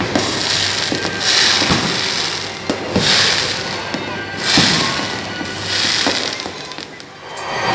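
Aerial fireworks bursting: a string of booms, several seconds apart, each followed by a hissing crackle.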